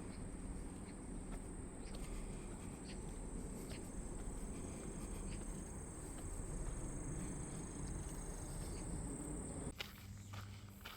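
Insects calling in one steady high-pitched tone over a low outdoor rumble, with faint footsteps on a path. A little before the end the insect tone cuts off suddenly and footsteps become clearer.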